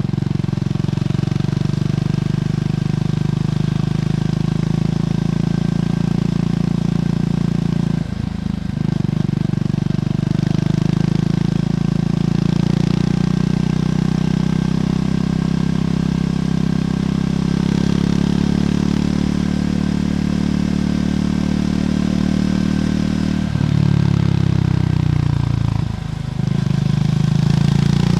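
Triumph Scrambler 400X's single-cylinder engine running through its stock exhaust, a steady engine note. The note breaks briefly about a third of the way in and again twice near the end, its pitch shifting after each break.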